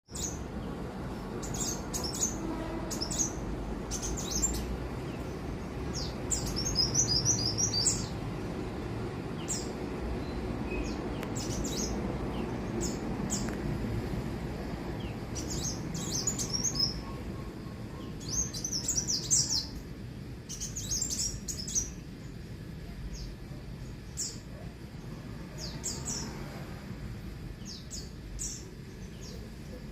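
Kolibri kowul sunbirds calling: short, high, thin chirps scattered throughout, with several quick trilled runs of notes, over a steady low background hum.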